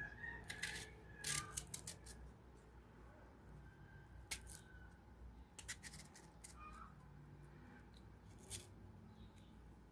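A knife cutting crunchy fresh mango: crisp snapping clicks come in small clusters, about a second in, around four seconds, around six seconds and near the end, with quiet between.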